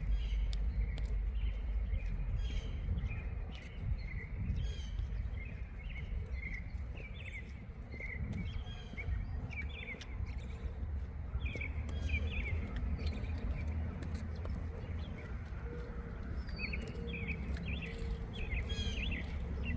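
Small birds chirping and twittering, many short calls in quick succession, over a low steady rumble.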